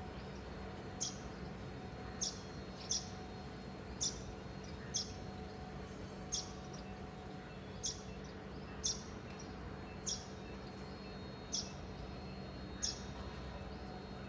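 A small bird chirping: short, high single chirps roughly once a second, eleven in all, over a faint steady hum.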